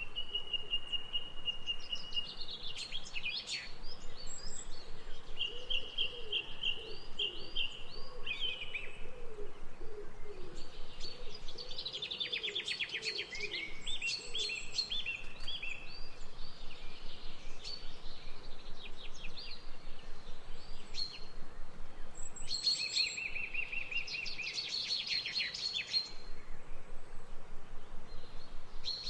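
Several songbirds singing: repeated whistled phrases and fast trills, with a lower repeating call beneath them through the first half, over a steady faint background hiss of outdoor ambience.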